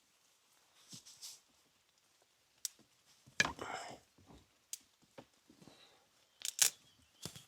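Snapping and crackling of twigs and brush, with a louder tearing crunch about three and a half seconds in and sharp snaps near the end.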